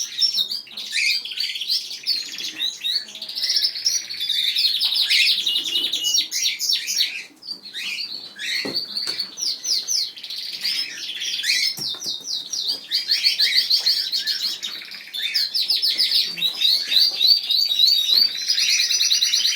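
A flock of aviary birds, canaries and cockatiels among them, chirping and singing without pause in fast, high trills and repeated notes.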